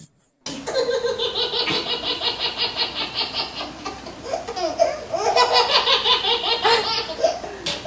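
Hearty laughter starting about half a second in, a long run of quick, repeated ha-ha pulses, played after a joke's punchline as a laugh sound effect.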